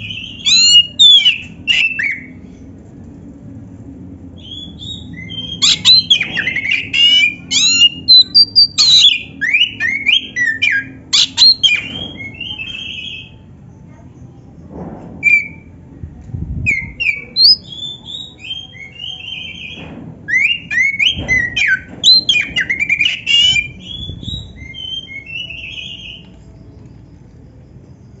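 Oriental magpie-robin (kacer) singing in loud bursts of rapid, varied whistled and chattering phrases, with short pauses between the phrases.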